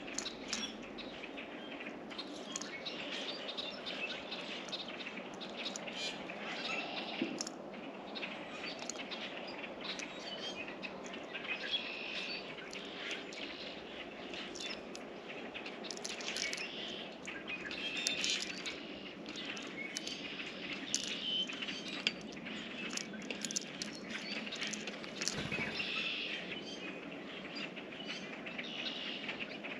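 Small songbirds at a bird feeder chirping and calling, with many short clicks and taps all through.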